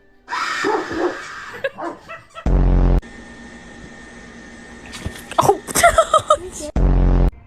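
A dog barking and yipping, with a quick run of barks in the second half. Two short, loud, low blasts of sound break in, one near the middle and one near the end.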